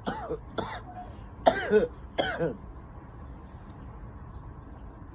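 A dog barking hoarsely from a distance: four short, rasping barks, each falling in pitch, in the first two and a half seconds, then quiet. The barking sounds odd enough to suggest something is wrong with the dog.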